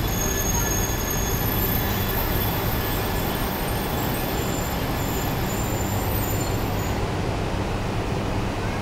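E3 series Shinkansen (coupled with an E2) rolling slowly along the platform, arriving at the terminal, with a steady low rumble. Faint high-pitched squealing fades out about seven seconds in.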